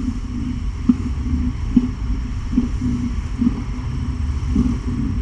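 Domestic cat purring close to the microphone: a steady low rumble that swells in a regular rhythm, a little more than once a second, with each breath.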